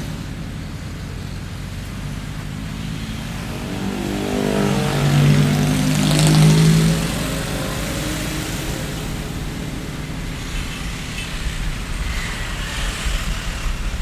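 Street traffic: a steady hum of motor vehicles, with one vehicle passing close in the middle, its engine note swelling to the loudest point about halfway through, then fading back into the traffic.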